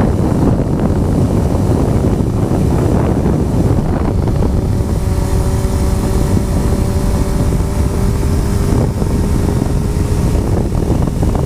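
Heavy wind noise buffeting the microphone while riding a Honda CBR motorcycle, with the engine's tone running steady underneath; the engine note stands out as a held hum through the middle.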